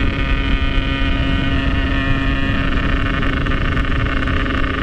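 Yamaha RX-King two-stroke single-cylinder motorcycle engine running at a steady speed while riding, with wind rushing over the microphone.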